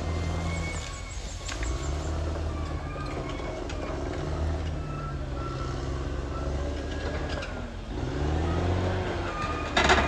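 Caterpillar D6R XL bulldozer's diesel engine running under load, its pitch dipping and recovering twice as the load changes, with squealing and ticking from the steel tracks. A short, loud clank comes near the end.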